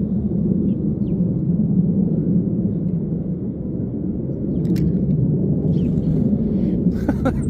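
Steady low rumble, with a few faint, short bird chirps over it.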